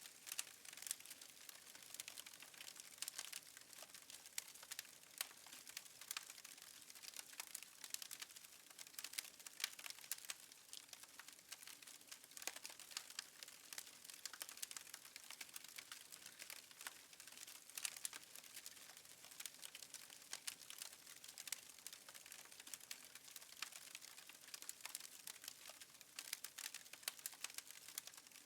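Faint crackling of a wood fire: many small, irregular pops and snaps over a soft hiss.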